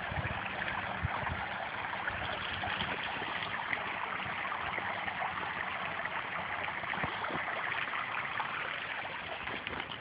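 A small stream running over rocks, a steady rush of water.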